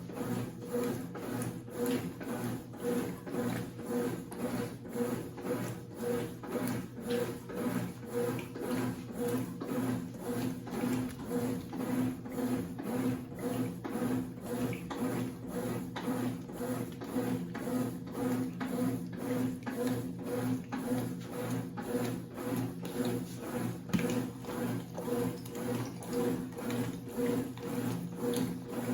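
Consul 8 kg CWC08 washing machine running mid-cycle, with a bedspread in the load: a steady motor hum with an even mechanical pulsing of about three beats a second, and some water.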